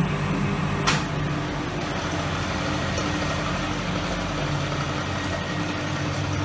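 Hoover Electra 535 twin-tub washer running between rinses: a steady motor hum with a single sharp click about a second in, after which the lower part of the hum drops away.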